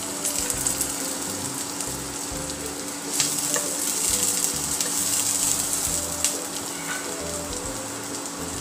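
Sliced onions sizzling in hot oil with chopped garlic in a non-stick frying pan. They are stirred with a wooden spatula that taps the pan a few times, and the sizzle grows louder from about three seconds in.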